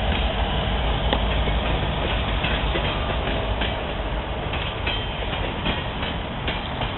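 Freight train cars rolling past over steady low rumbling, with wheels clicking irregularly over rail joints. The sound eases off slightly in the second half.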